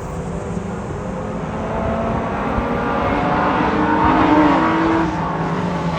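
Vintage race cars' engines growing louder as the cars approach along the circuit, loudest about four seconds in, where one engine note drops in pitch as it passes.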